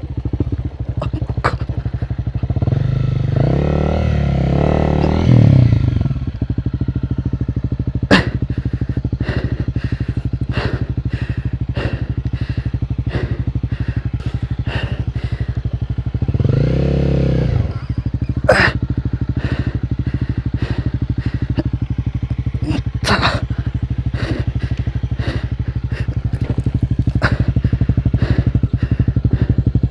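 Motorcycle engine running steadily, revving up and back down twice, about four seconds in and again around seventeen seconds. Sharp clicks and knocks are scattered throughout.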